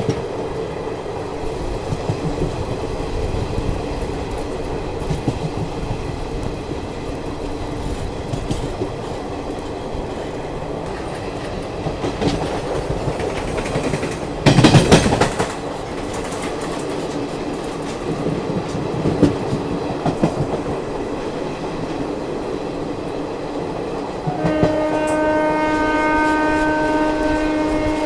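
Azad Hind Express passenger train running along the track, heard from the coach's open door: a steady rumble and rattle of wheels on rail, with a brief loud burst about halfway through. Near the end a long, steady train horn blast starts and holds.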